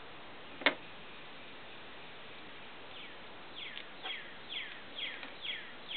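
A bird calling in a repeated series of short, high, falling notes, about two a second, starting about halfway through. Earlier there is a single sharp click.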